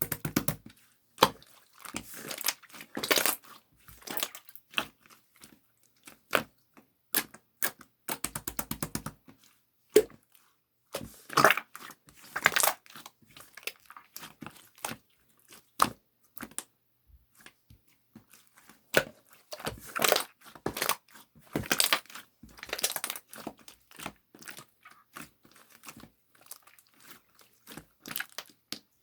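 Slime being squeezed, stretched and poked by hand: irregular crackling and crinkling with sharp pops and clicks, and a quick run of rapid clicks about eight seconds in.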